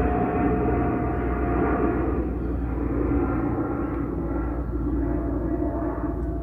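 De Havilland Canada Dash 8 Q300 turboprop airliner climbing out low overhead after takeoff: a steady engine drone with a clear high tone that sinks slightly in pitch as it moves away.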